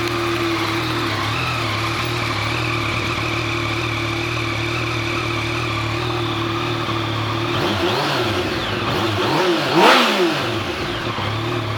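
2020 Yamaha MT-09's three-cylinder engine idling steadily, then revved in a few quick throttle blips about eight seconds in. The last blip, near ten seconds, is the loudest, and the engine then drops back to idle.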